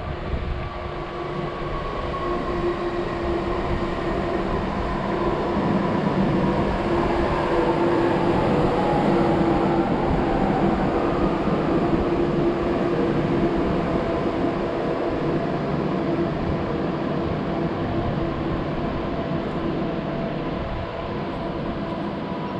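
Train running through the station, with a continuous rumble and several steady whining tones. The sound grows to its loudest about 8 to 10 seconds in, while one tone slides gently downward, then eases off.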